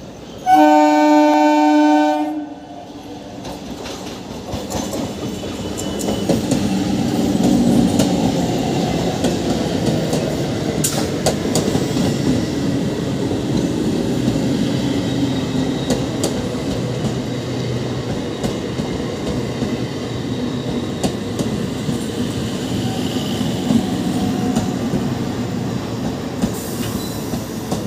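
An Indian suburban electric local train (EMU) sounds one loud horn blast lasting about two seconds. Its coaches then roll past on the rails with a rumble of wheels that builds over a few seconds and then holds steady.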